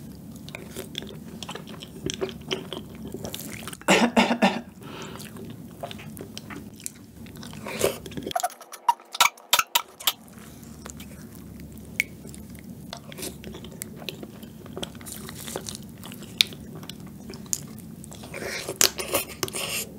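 Close-miked chewing of a spoonful of milk-soaked tiramisu, with irregular wet mouth noises. About four seconds in there is a sudden loud cough, set off by the cocoa powder.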